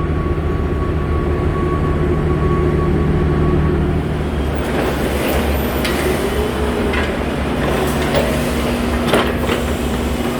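Loading-dock machinery: a steady low mechanical rumble with a hum. From about four seconds in come scattered clanks and rattles of pallets being loaded into a trailer.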